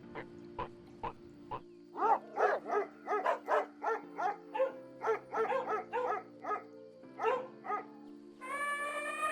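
A dog barking in a quick series of short barks, about three a second, over steady background music.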